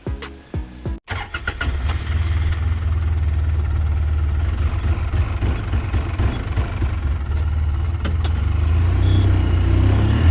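A brief snatch of music cuts off about a second in, then an engine runs steadily with a low rumble.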